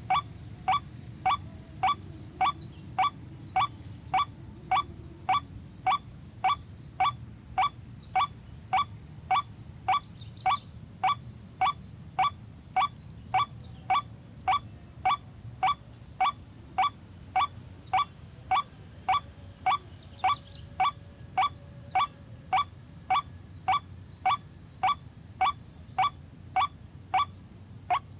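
White-breasted waterhen (ruak-ruak) call, a short nasal honk repeated about twice a second at a perfectly even, unchanging pace, like a looped recording played as a lure.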